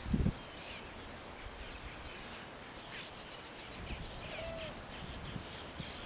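Birds calling in a few short, high chirps, with one lower curved call midway, over a faint steady high-pitched insect drone. Wind buffets the microphone for a moment at the start.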